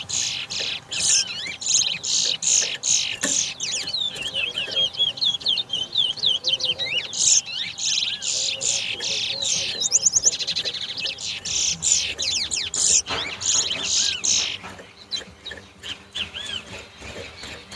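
Caged towa towa seed finches singing in a song-count race, with rapid, repeated chirping phrases and trills that overlap densely. The singing thins to sparser, quieter chirps about fourteen seconds in.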